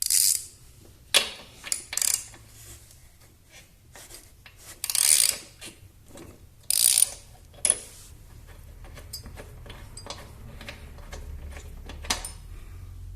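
Spark plug being fitted into a lawnmower engine and tightened with a ratchet and socket: several short bursts of clicking and metal clanks in the first eight seconds, then lighter scattered ticks.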